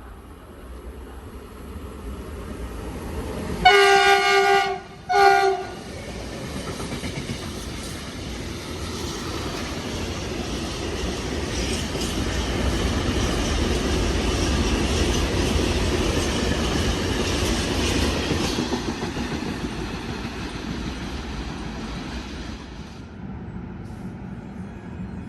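A passing train sounds its horn, a long blast followed by a short one. Its rumble then swells, holds for several seconds, and fades away.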